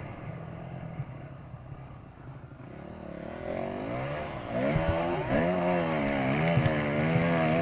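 Dirt bike engine, low at first, then revving up about halfway through, its pitch rising and falling repeatedly as the throttle is worked, and loudest near the end.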